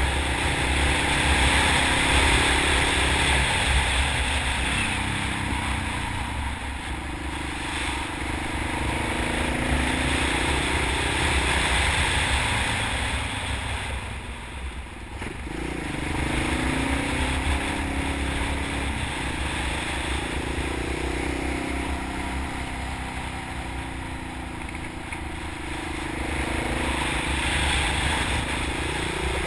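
Honda XR650 single-cylinder engine pulling a motorcycle along a winding road, its pitch rising and falling with the throttle through the bends. The engine eases off about halfway through, then picks up again with a rising pitch. Heavy wind rush on the microphone is mixed in throughout.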